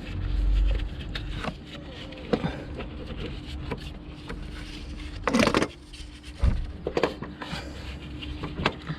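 Metal parts knocking and scraping as a starter motor is worked loose and pulled out from under a car, with a few sharp knocks, the loudest about five and a half seconds in, over a faint steady hum.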